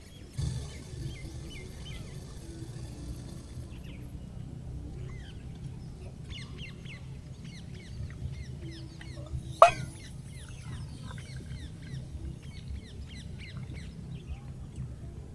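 Birds calling with many quick, repeated falling chirps over a steady low rumble, with one sharp, loud sound a little under ten seconds in.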